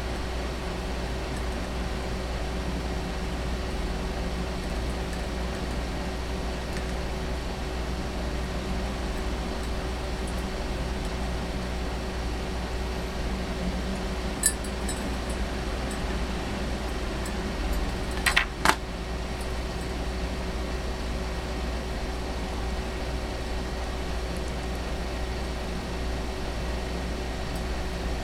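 Steady low mechanical hum, like a fan or appliance, with a few sharp clicks about halfway through and a brief cluster of louder clicks or clinks a little later.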